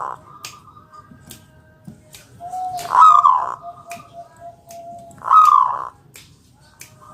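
Zebra dove (perkutut) cooing as a lure call. Two loud coos come about three and five and a half seconds in, with softer held cooing between them and short sharp clicks scattered throughout.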